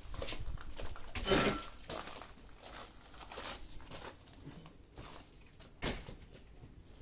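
Scattered knocks, clinks and scrapes of a glass pane and its frame being handled and fitted into a sliding entrance door, the loudest knock about a second and a half in and another near the end.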